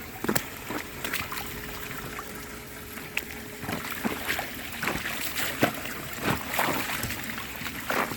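Footsteps on wet ground, about one or two a second, over a steady hiss of rain and trickling water.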